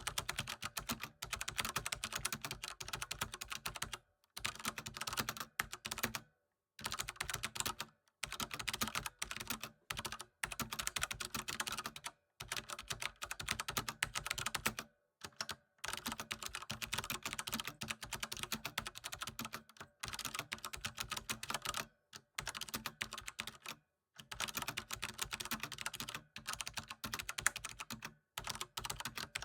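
Computer keyboard typing: fast, continuous runs of key clicks in bursts of several seconds, separated by brief pauses.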